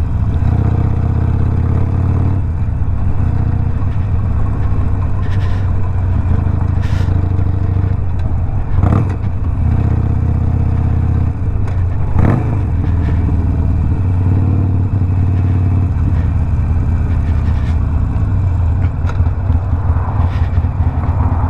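Harley-Davidson Sportster Iron 1200's air-cooled V-twin, stage one tuned with a Two Brothers 2-into-1 exhaust, running steadily while riding. Two short knocks come about nine and twelve seconds in.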